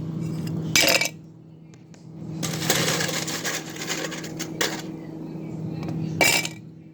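Eating utensil clinking and scraping against a plate of food: sharp clinks about a second in and near the end, and a longer scrape in the middle.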